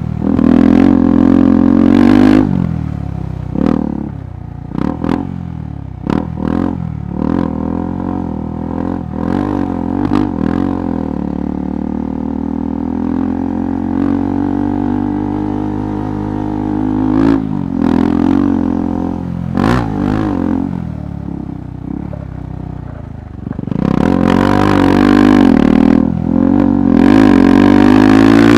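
KTM 390 Adventure Rally's single-cylinder engine on rough off-road ground, the throttle opened and closed in short blips that rise and fall in pitch. It settles into steadier running midway, then climbs in a loud rising rev near the end. Scattered knocks and clatter come in between.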